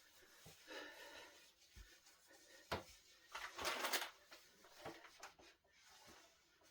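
Light handling noises: scattered soft knocks and clicks, a sharp click a little before the middle, then about a second of rubbing or scraping.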